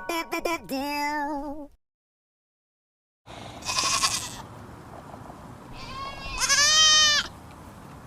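A short music jingle ends about a second and a half in. After a moment of silence, a sheep bleats twice: first a brief, breathy call, then a longer, clearly pitched bleat near the end.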